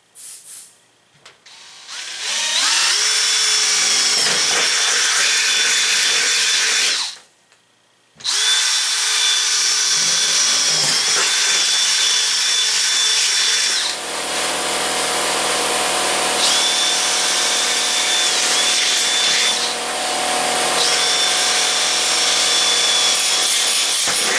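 Power drill boring holes through a sheet-metal race-car roof for its mounting tabs. It spins up, runs about five seconds and stops. It then starts again and runs to the end, with its pitch dipping briefly twice as the bit loads up in the metal.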